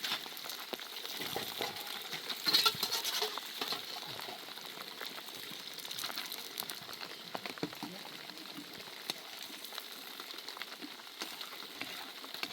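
Food frying in a pan, a steady sizzle with scattered crackles and a louder burst about two and a half seconds in.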